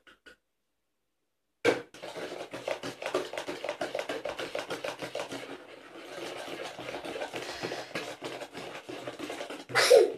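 Cake batter being beaten by hand in a bowl: a fast, steady clatter of the utensil against the bowl for several seconds, easing briefly midway. It opens with a sharp knock and ends with a louder clatter.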